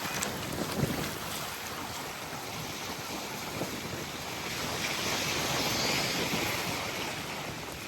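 Small waves lapping and washing up a sandy beach, with the hiss of a wash running up the shore swelling about five seconds in. Wind buffets the microphone.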